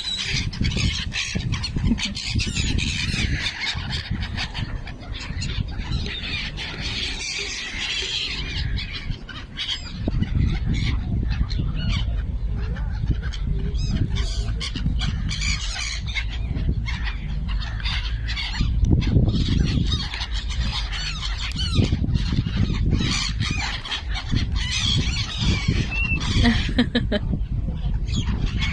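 A flock of birds calling and squawking over one another as they feed on scattered popcorn, with a steady low rumble underneath.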